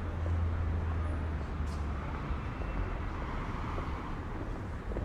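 Street traffic: a motor vehicle passing, its engine rumble and tyre noise swelling in the middle and easing off toward the end.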